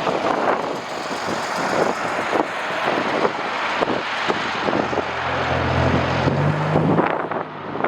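Strong gusty wind buffeting the microphone. About five seconds in, a low engine hum comes in under it, steps up in pitch and fades after a couple of seconds.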